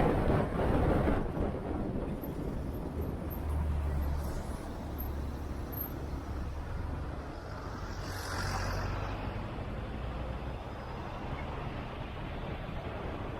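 Motorcycle on the move: a steady low engine and road rumble with wind noise on the microphone. A loud wind gust fades in the first second or so, and about eight seconds in a brief hiss swells and fades.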